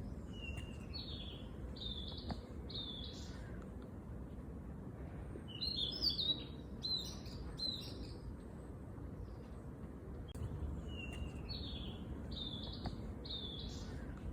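A songbird singing: a short phrase of about four notes, each a step higher, heard near the start and again near the end, with a busier run of chirps in the middle. A steady low rumble of background noise sits underneath.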